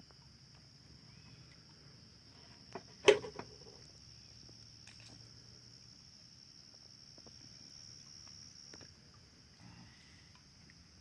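Insects droning steadily in a high pitch in summer countryside. About three seconds in there is one brief, louder sound.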